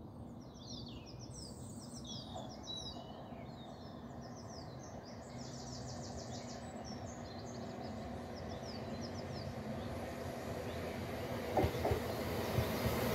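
Class 170 Turbostar diesel multiple unit approaching, its engine and running noise growing steadily louder, with a few sharp clicks near the end. Birds sing over it in the first half.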